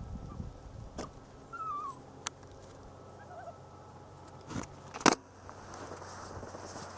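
A single sharp crack about five seconds in, much louder than anything else. A soft hiss follows it. Before it come a few fainter clicks and a couple of short chirps like a small bird's.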